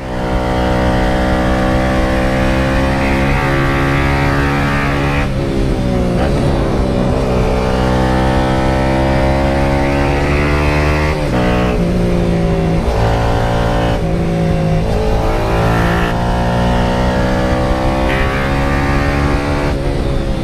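Small motorcycle engine accelerating hard through the gears. The pitch climbs steadily, then drops sharply at each upshift, several times over.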